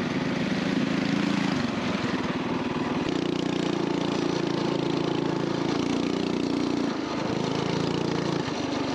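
A Coleman BT200X mini bike's small single-cylinder four-stroke engine running steadily on the trail. Its note eases off for a moment early on and twice more near the end.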